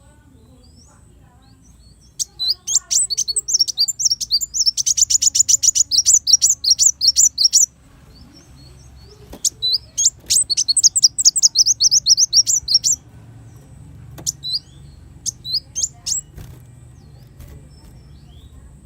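Kolibri wulung (a sunbird) singing: two long runs of rapid, high, thin chirps, each several seconds long, then a few scattered single chirps.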